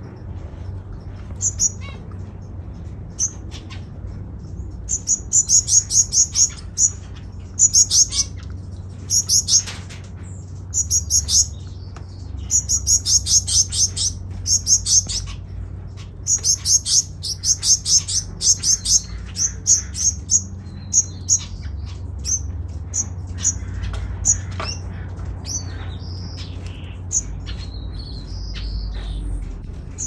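Small aviary birds chirping in quick high-pitched trains of short calls, one train after another, over a steady low hum.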